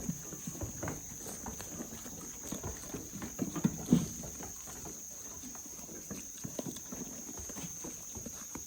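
Goats moving about, with scattered hoof clatter and knocks, and one sharper knock about four seconds in.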